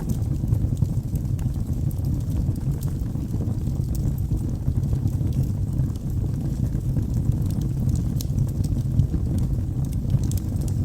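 Wood fire burning in a fireplace: a steady low rumble of flames with scattered small, sharp crackles from the burning logs.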